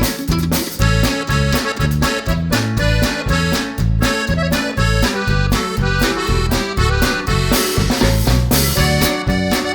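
Upbeat background music with an accordion-like lead over a steady bass and drum beat.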